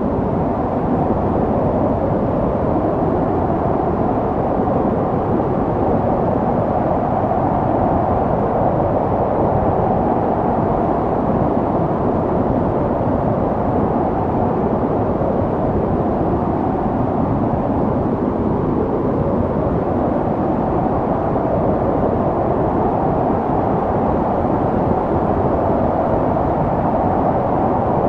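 Snowstorm wind blowing steadily, a dense rushing with a faint howl that wavers slowly.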